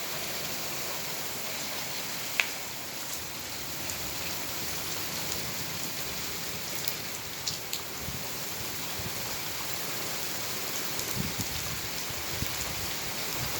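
Heavy rain falling steadily: an even hiss of rain on surfaces, with a sharp drip or tap about two seconds in and a few fainter ones later.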